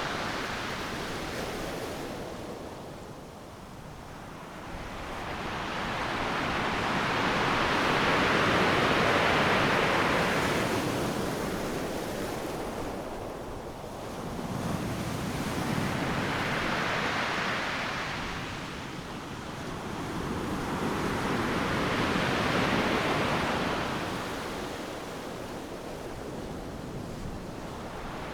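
Ocean surf: waves breaking and washing up the beach, a rushing noise that swells and fades every five to eight seconds, loudest about nine seconds in.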